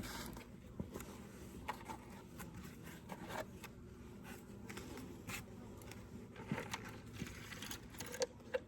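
Faint scattered clicks, light knocks and scrapes of wooden beehive parts being handled as a hive is closed up.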